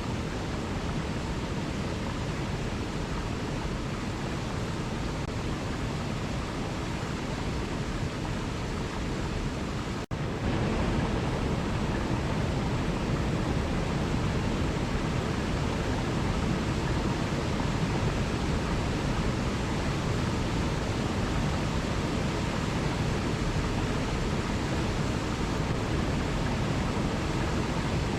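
Waterfall rushing in a steady, even roar of water noise. About ten seconds in there is a brief dropout, after which it runs on slightly louder.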